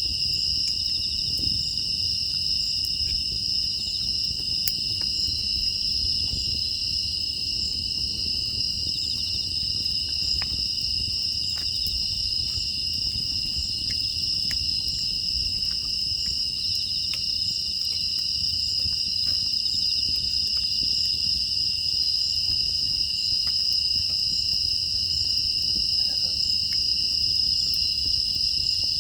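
Steady chorus of crickets and other grass insects singing, with faint scattered crackles of a wood fire.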